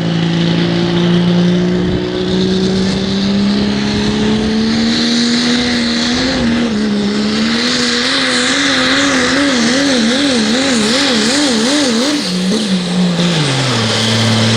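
Pro stock diesel pulling truck's engine at full power under load, its pitch climbing slowly. It then surges up and down about twice a second as the truck bounces, and drops away near the end as the pull stops. The announcer puts the struggle down to too big a gear.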